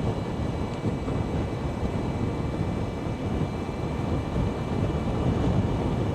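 Steady wind and road noise from riding an Energica Experia electric motorcycle at speed, a continuous low rush with faint steady high-pitched tones above it.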